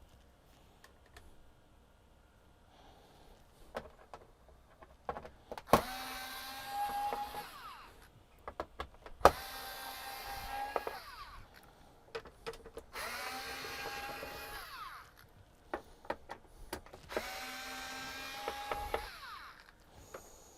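Cordless electric screwdriver undoing the screws of a flat-screen TV's back cover: four runs of about two seconds each, each starting with a click and holding a steady motor whine, with small clicks and taps of handling between them.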